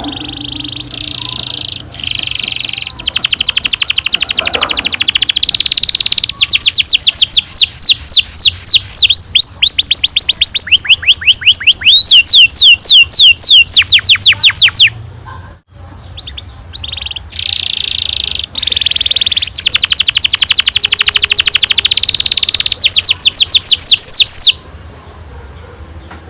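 Domestic canary singing long rolling trills: very fast runs of repeated notes, some as quick falling sweeps. The song breaks off briefly about halfway, then carries on and stops a couple of seconds before the end.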